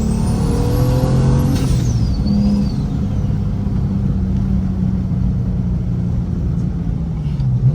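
Big single-turbo N54 straight-six in a manual BMW 335i with a straight-piped exhaust, pulling under boost. A high turbo whistle rises over the first second, then falls away after about two seconds. The engine then runs on at a steady pitch.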